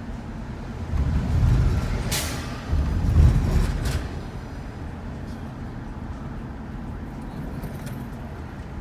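Steady road rumble of a moving shuttle van, swelling louder from about one to four seconds in, with a short sharp hiss about two seconds in.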